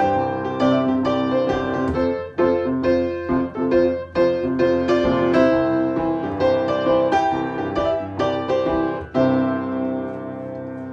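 Piano playing chords and melody notes with no singing, the instrumental close of the song, dying away over the last second or two.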